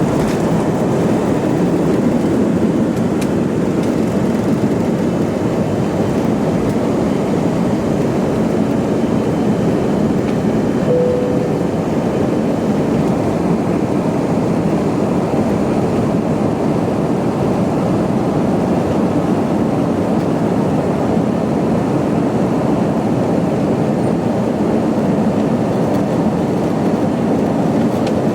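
Airbus A320-200 cabin noise heard from an economy seat: a steady, even roar of the jet engines and airflow. A single short, faint tone sounds about eleven seconds in.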